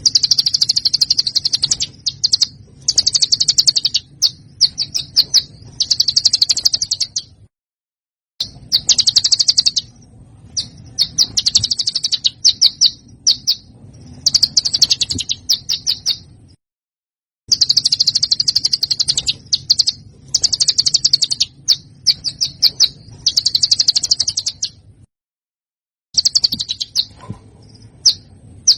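Songbird recording of rapid, harsh chattering trills and fast repeated notes, high-pitched, in phrases of one to two seconds. The same run of phrases repeats about every nine seconds after a second of silence: a looped masteran track used to teach competition songbirds.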